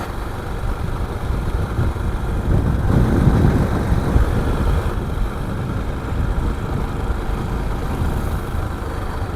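2014 KTM 690 Duke's single-cylinder engine running as the motorcycle is ridden, with wind rush on the helmet microphone. It swells slightly about three seconds in.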